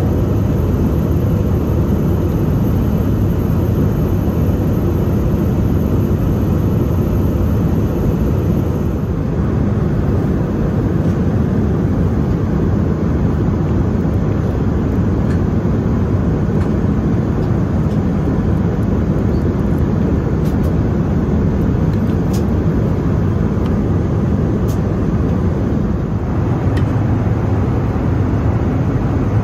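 Steady rumble of an Airbus A320's jet engines and rushing air in flight, heard inside the cabin.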